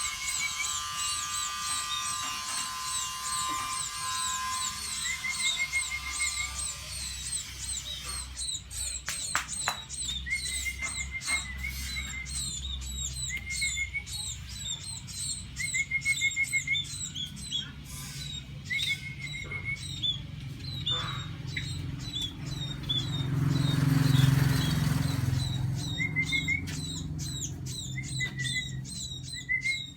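A flock of munias in an aviary chirping constantly: many short, high calls, with small trilled notes among them. A steady humming tone fades out in the first few seconds, and a rush of noise swells and dies away about two-thirds of the way through.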